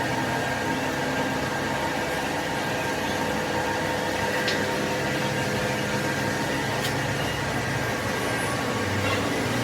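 Steady hum of workshop machinery running, an even noise with a few steady tones, broken only by two faint clicks about halfway through.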